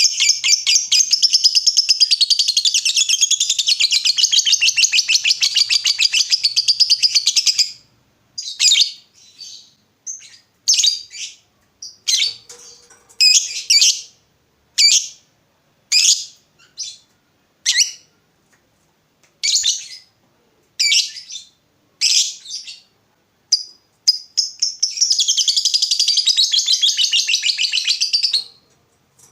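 Lovebird chattering. A long, very fast trill runs for about eight seconds (the 'ngekek' prized in a lovebird in full song), then sharp single chirps come about once a second, then another long fast trill sounds near the end.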